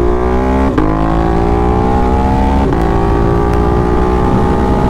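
Ducati Monster's V-twin engine through an SC Project exhaust, accelerating hard. The pitch rises, then drops sharply at two upshifts, about a second in and again near the middle, and climbs again after each.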